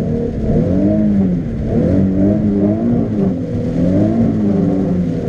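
Nissan 370Z's 3.7-litre V6 engine heard from inside the car, its revs rising and falling several times as it is driven. The owner puts the odd sound down to its lightweight flywheel and stage 2 clutch.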